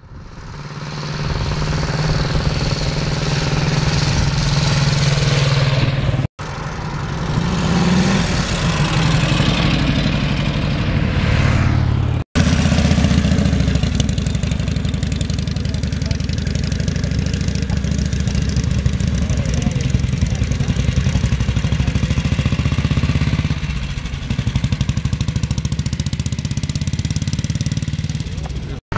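Vintage motorcycle engines running and revving, heard in several short clips joined by abrupt cuts about 6 and 12 seconds in and near the end.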